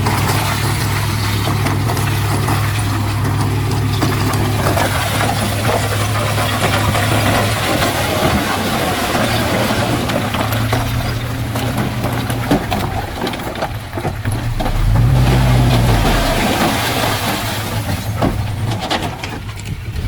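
Diesel engine of heavy earthmoving machinery running steadily, with rattling and clanking over it. The engine note swells briefly about fifteen seconds in.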